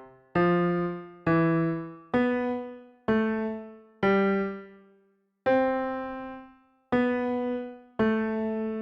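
Background music: a slow electric piano line, each note struck and left to fade, about one a second, with a longer pause about halfway; the last note rings on.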